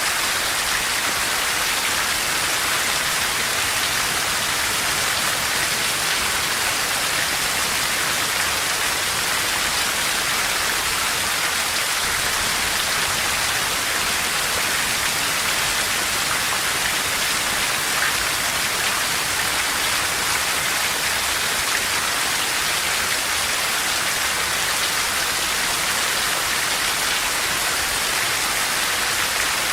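Steady, heavy rain falling, an even hiss with no break or thunder.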